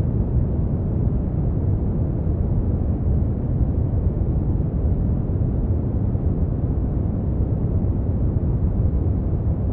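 Brown noise: a steady, deep rumbling hiss with most of its energy in the low end and little in the highs, unchanging throughout.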